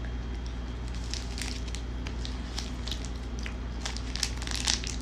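Plastic snack wrapper crinkling and crackling as it is handled and opened, the crackles thickest about four to five seconds in, over a steady low hum.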